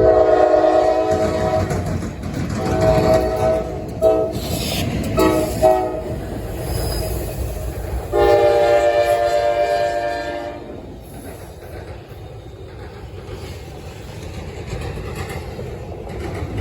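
Norfolk Southern locomotive air horn sounding a series of blasts in a long, long, short, long pattern, the grade-crossing signal, over the low rumble and wheel clatter of the train. The horn stops about two-thirds of the way through, leaving the rumble of the passing train.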